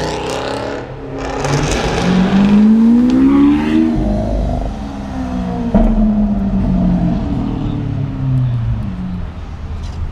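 Loud performance car engine revving hard as it accelerates, its pitch rising for a couple of seconds. A sharp crack comes about six seconds in, then the engine note falls away.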